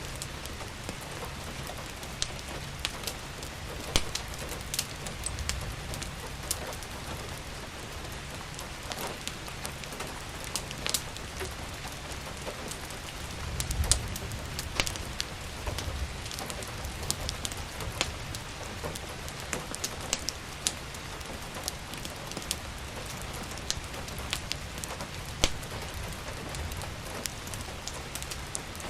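Steady rain falling, with a fireplace crackling: irregular sharp pops and snaps over the rain's hiss. A brief low rumble about midway.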